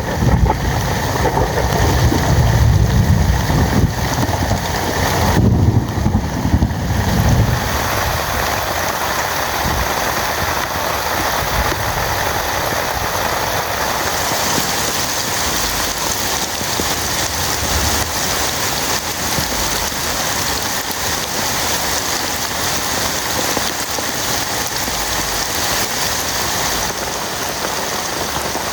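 Heavy rain falling steadily, an even hiss, with a low rumble underneath for the first several seconds that then dies away.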